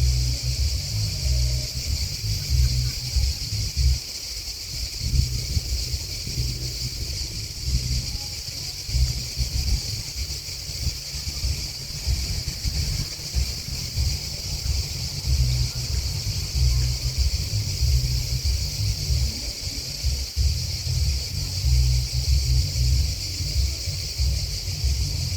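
Grasshoppers and crickets chirping in a steady, unbroken high-pitched chorus, over a low, uneven rumble that rises and falls.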